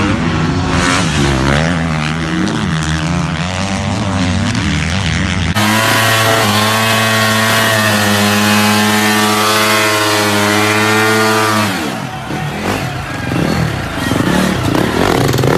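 Dirt bike engines revving up and down. From about five seconds in, one engine is held steady at high revs for about six seconds, then its pitch drops off.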